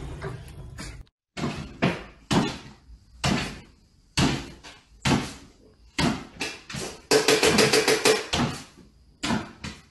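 A series of sharp knocks and bangs, spaced unevenly about half a second apart, with a fast rattle of about eight knocks a second lasting over a second late on.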